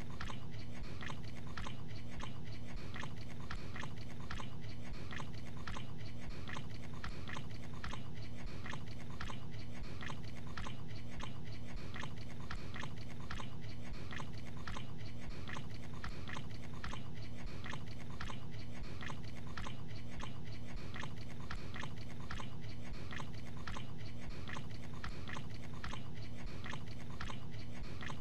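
A man chewing a mouthful of gabagool (cured capicola), the chews coming in an even rhythm of about two a second.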